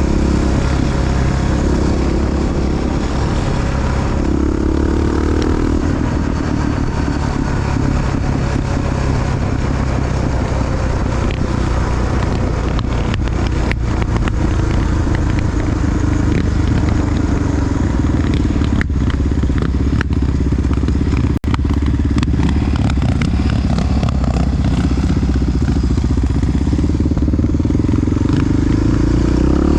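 Single-cylinder four-stroke engine of a Honda XR dual-sport motorcycle running while riding, its pitch rising and falling with the throttle. There is a momentary dropout about two-thirds of the way through.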